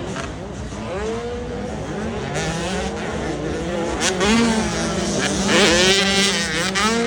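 Motocross motorcycle engines revving, their pitch rising and falling as several bikes accelerate and back off, with a burst of rising revs near the end.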